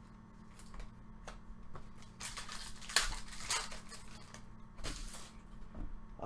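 Baseball trading cards being handled and flipped through by hand: light clicks and rustling as cards slide over one another, with a sharp click about three seconds in.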